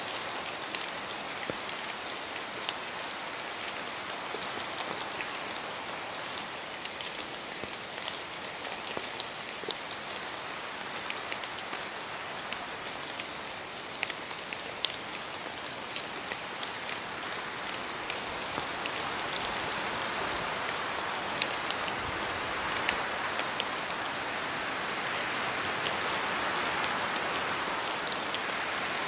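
Steady rain falling, with many sharp drop ticks over an even hiss. It grows a little louder in the second half.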